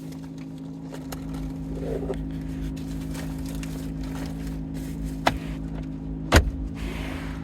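C8 Corvette Z06 engine idling with a steady low hum. A sharp click about five seconds in and a louder knock about a second later come from handling things in the car.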